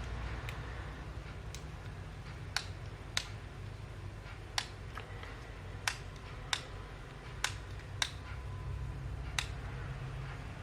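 Sharp, separate clicks, about ten in all and roughly a second apart, of a Fujifilm X-T3 mirrorless camera's buttons and switches being pressed while the dead camera is tested, over a steady low hum.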